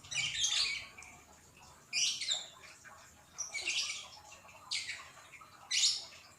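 Gel slime being squeezed and stretched by hand, giving about five short wet squelches roughly a second apart.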